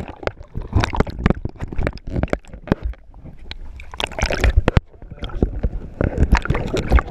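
Water sloshing and slapping against a small boat's hull, with irregular knocks and splashes.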